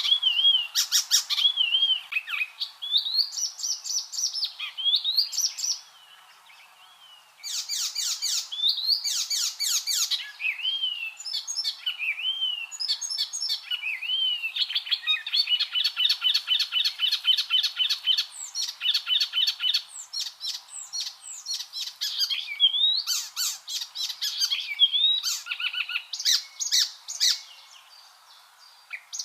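Icterine warbler singing: a fast, varied stream of whistled slurs, chattering notes and rapid trills, broken by short pauses about six seconds in and near the end.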